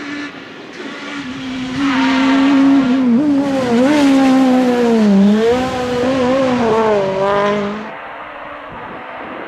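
Group F2000 rally car's naturally aspirated engine at high revs as the car passes at speed. Its pitch wavers up and down, it is loudest in the middle, and it drops away sharply near the end.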